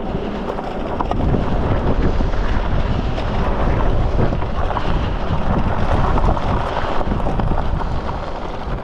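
Wind buffeting the action-camera microphone: a steady, noisy low rumble.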